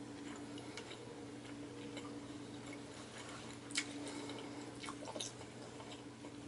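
Close-miked eating sounds: soft chewing and small wet clicks of fingers picking food from a plate. About four seconds in, a sharp tap as a drink can is set down on the table, over a steady low hum.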